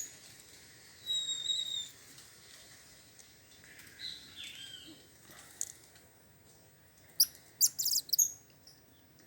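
High-pitched animal calls: one long whistle about a second in, a shorter falling call around four seconds, and a quick run of sharp chirps near the end.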